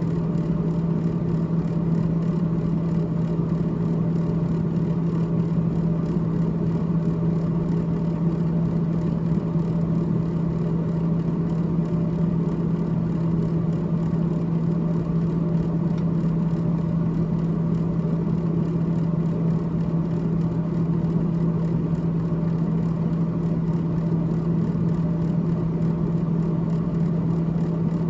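Freezer fan of a GE GTH18XCTZRBB refrigerator running with a steady low hum and whir.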